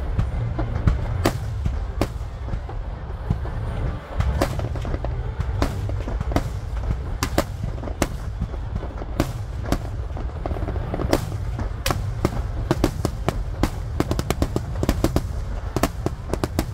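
Fireworks star mine with shakudama (10-inch) shells: many shells launching and bursting in quick succession, the bangs coming faster and closer together in the last few seconds. A constant low rumble runs underneath.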